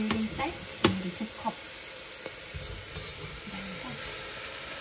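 Sliced shiitake and oyster mushrooms sizzling in sesame oil in a Staub cast-iron pot. A utensil clicks against the pot several times in the first second and a half as they are stirred.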